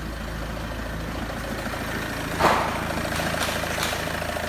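Peugeot 2.0 HDi DW10ATED four-cylinder turbodiesel idling steadily, with one short, louder sound about two and a half seconds in.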